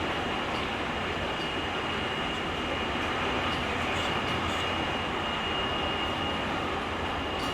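Running noise of a JR Kyushu 883 series 'Sonic' limited express electric train, heard from the vestibule deck of motor car KuMoHa 883-8: a steady rumble of wheels on rail, with a thin steady high tone over it.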